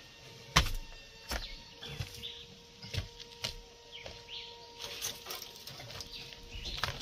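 A handful of sharp knocks and clatters, the loudest about half a second in. Birds chirp in the background, and a faint steady hum stops near the end.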